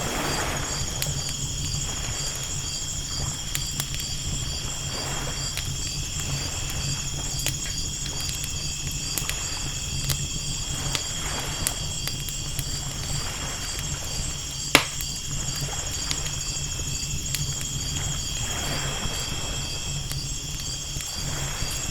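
Campfire crackling with scattered sharp pops, one louder pop about fifteen seconds in, over crickets chirping steadily and ocean waves washing softly in every few seconds.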